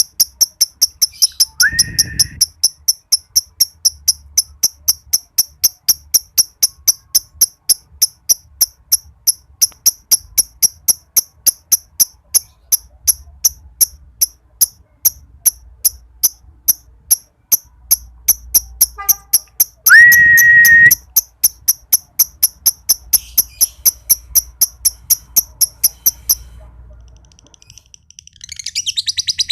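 High, even cricket-like ticking chirps repeat about three times a second and stop about 26 seconds in. Two short whistles rise and then hold, about 2 and 20 seconds in. After a brief pause, a green lovebird's shrill, rapid chattering trill begins near the end.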